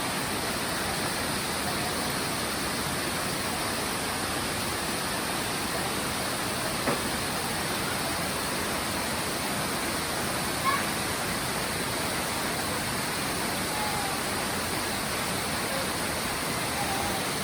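Steady rain falling in a forest, an even hiss, with two brief sharp ticks partway through.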